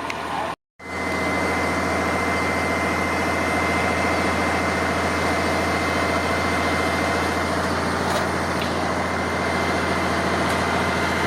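Truck-mounted crane's engine running steadily, with a thin steady high-pitched whine on top; the sound drops out briefly about half a second in, then resumes.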